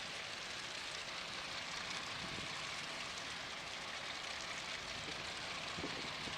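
Steady rushing noise, like wind or water, with a few low knocks near the end.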